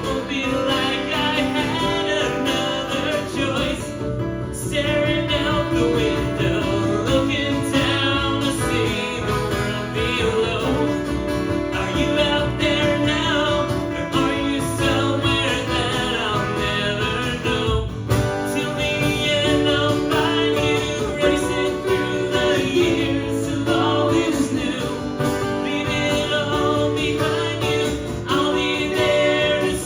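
Live acoustic song: strummed acoustic guitar accompanying a man's singing voice, played steadily throughout.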